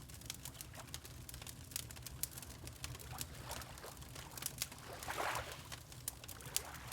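Wood fire crackling in a fireplace, with sharp irregular pops over a low steady rumble, mixed with gentle water lapping; one fuller lap swells about five seconds in.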